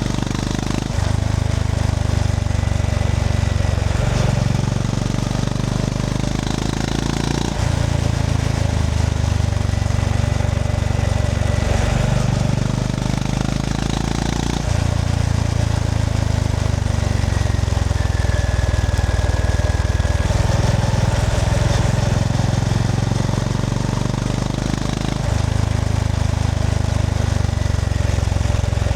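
Honda GB350S single-cylinder engine running under way, its note changing in sudden steps several times, with a steady rush of wind noise.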